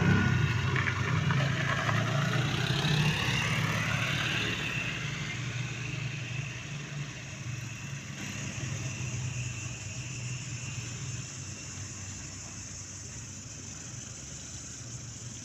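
Road vehicle engine running with a steady hum. It is loud at first, with a rising whine in the first few seconds, and fades over the next several seconds to a low, even level.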